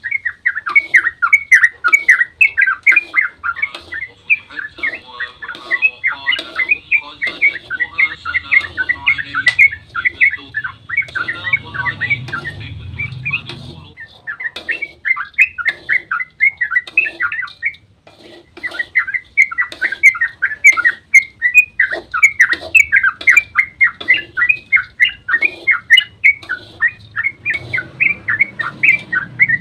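Yellow-vented bulbul (trucukan) giving its rapid chattering 'ropel' song: long runs of quick, bright chirping notes. The bird pauses to softer scattered notes about halfway through, then resumes the fast run.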